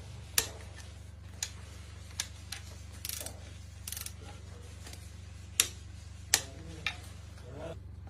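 Sharp metallic clicks and clinks of tools at irregular intervals, about nine in all, over a steady low hum.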